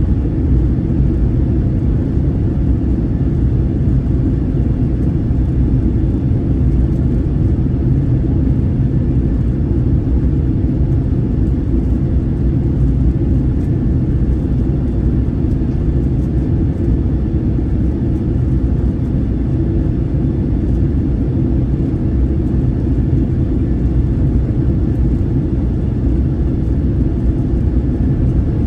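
Steady low rumble of an airliner in flight: engine and airflow noise heard from inside the cabin.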